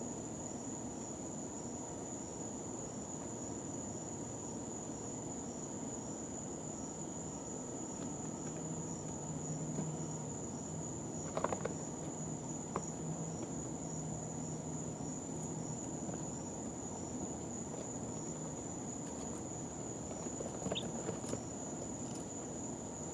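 A steady high-pitched whine over a hiss of background noise. A brief sound comes about halfway through and a few short high blips near the end, typical of a chick stirring or peeping once.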